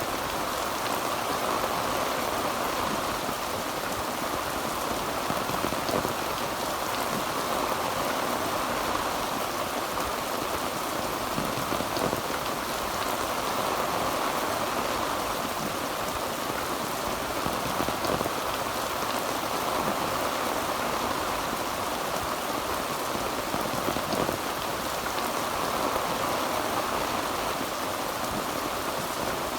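Heavy rain drumming steadily on a tin roof, a dense even patter without thunder.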